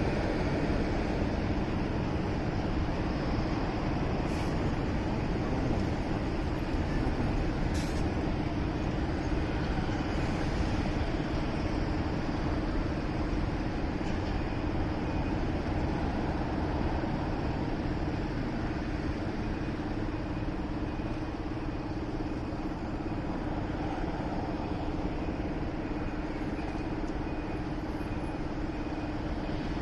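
Steady road and wind noise from a motorcycle riding in city traffic, with a steady low hum.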